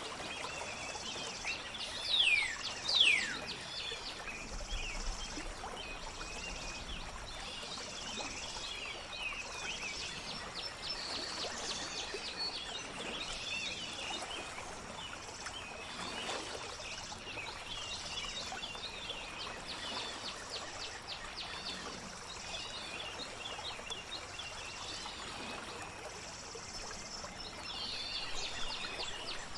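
Nature ambience of steady flowing water with birds singing: rapid chirps and trills throughout, and two loud whistles sweeping downward in pitch about two and three seconds in.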